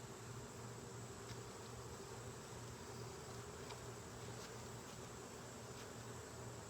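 Honeybees buzzing, a steady hum with a few faint clicks scattered through it.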